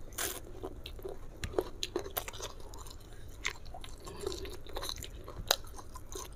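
Close-miked chewing of a mouthful of food eaten by hand, with wet mouth smacks and small clicks coming at irregular moments.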